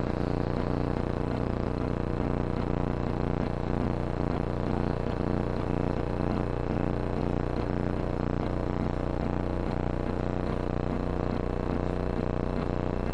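Kawasaki ZZR1400's inline-four engine idling steadily through a Yoshimura aftermarket muffler.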